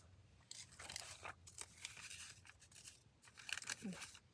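Paper being handled and trimmed: faint, irregular crisp rustles and snips, in two clusters, about a second in and again near the end.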